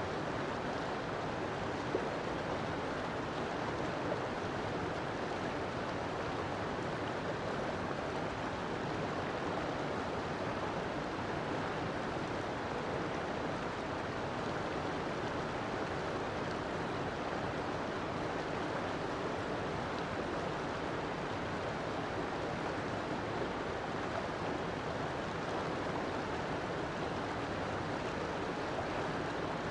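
River water flowing and rushing steadily, an even wash of sound.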